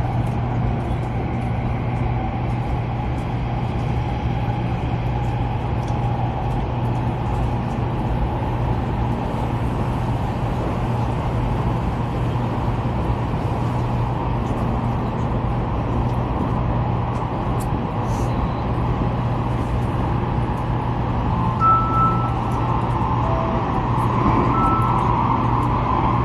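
Steady running noise inside a Taiwan High Speed Rail train at speed: a low hum and even rushing hiss. A few short, faint beeps come near the end.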